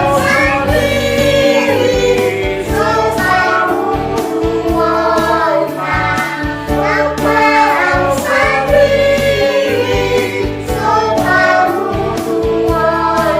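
Group of voices singing a Christian hymn together over instrumental accompaniment with a steady low bass line.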